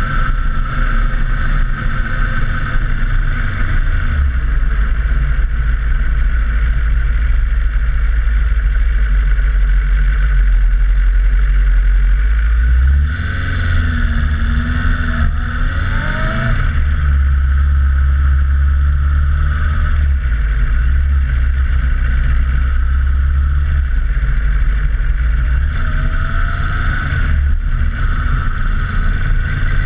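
Motorcycle on the move, its engine running under heavy wind rumble on a bike-mounted camera. About halfway through the sound dips briefly, then the engine revs up in rising glides, with another short rise near the end.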